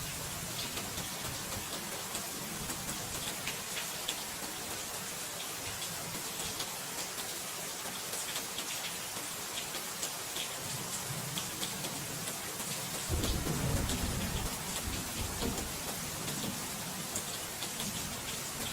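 Steady rain with scattered drop ticks. About two-thirds of the way through, a low roll of thunder rumbles in and lingers.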